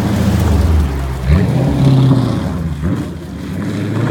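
Loud Hemi V8 engine revving, its pitch climbing sharply about a second in and again near the three-second mark.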